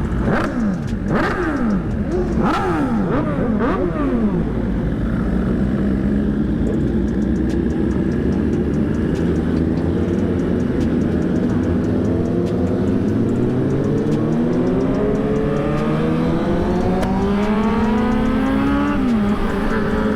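Sport-bike engines revving in quick blips for the first few seconds as a group of motorcycles pulls away, then a Suzuki GSX-R1000's inline-four climbing through the revs in a long rising whine, dropping sharply near the end at a gear change.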